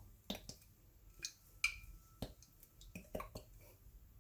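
A scattered run of small, sharp clicks and taps at irregular intervals, about a dozen in all, with one thin steady tone faintly underneath in the middle.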